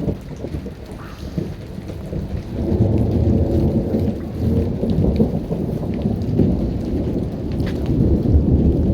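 Continuous rolling thunder: a low rumble that swells about two and a half seconds in and goes on without a break.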